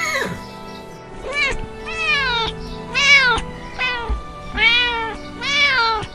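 Domestic cat meowing about six times in a row, each meow rising then falling in pitch, over background music.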